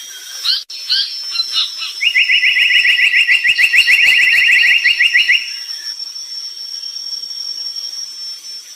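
Brown tali pocong bird singing: a few short chirps, then a fast trill of about ten falling notes a second lasting about three seconds. A thin, steady high-pitched tone runs underneath.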